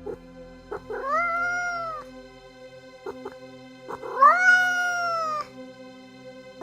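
Domestic cat meowing twice: two long, drawn-out meows, each rising in pitch and then sagging, the second louder and starting about four seconds in, with a few short clicks between them.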